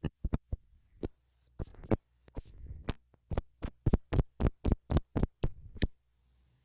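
A series of close taps and pokes right on a smartphone's microphone, irregular at first, then about three a second, stopping shortly before the end.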